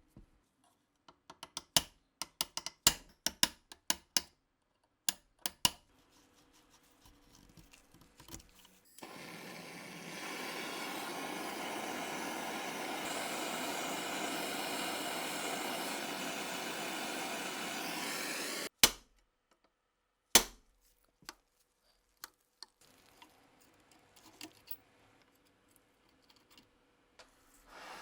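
Small metal parts clicking and clinking in quick, separate strokes. Then about ten seconds of steady hissing cuts in and stops abruptly, followed by two sharp clicks.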